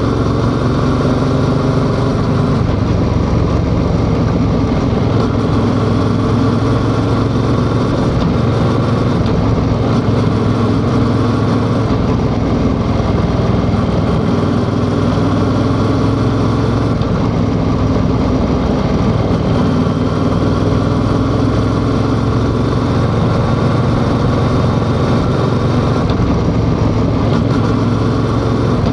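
Yamaha XSR700's parallel-twin engine running steadily on the move, its pitch drifting up and down a little with the throttle.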